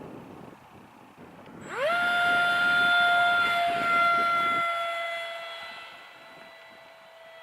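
The electric ducted fan of a SkyAngel F-16 RC jet spools up to full throttle with a steep rising whine. It settles into a loud steady high-pitched whine, then slowly grows fainter as the jet moves away.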